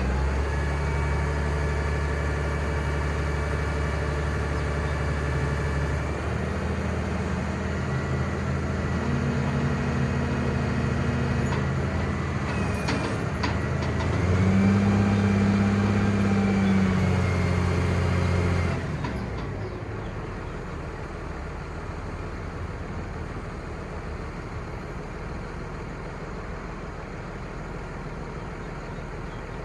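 Ford F800 crane truck's 5.9L Cummins six-cylinder turbo diesel running steadily. Its pitch shifts about six seconds in, it runs louder with a rise and fall in pitch around the middle, then it drops suddenly to a quieter, lower running sound about two-thirds of the way through.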